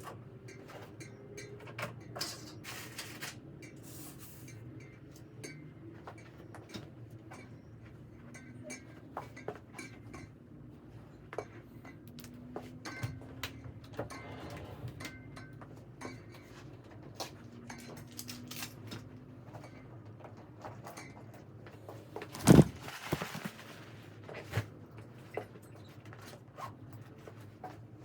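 Household clatter in a small room: scattered light clicks and knocks of things being handled, like dishes and cupboard doors, with one loud knock about two-thirds of the way through.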